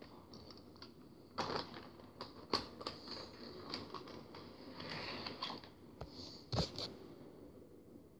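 Model train running on the layout track, heard as faint, irregular clicks and short rattles; the loudest clicks come about one and a half, two and a half and six and a half seconds in.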